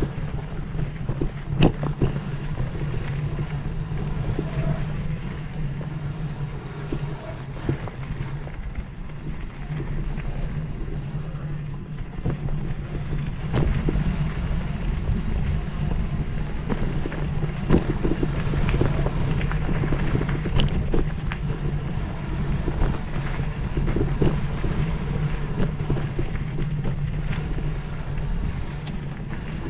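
A vehicle engine running steadily under way, with wind noise and scattered short knocks and rattles.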